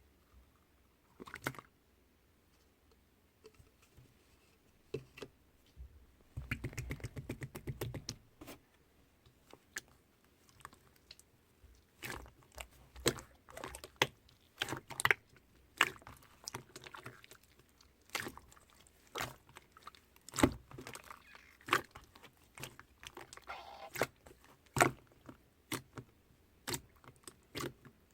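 Pearl slime being pressed, poked and pulled by hand, giving irregular sticky pops and clicks, with a fast crackling run of pops lasting about a second and a half.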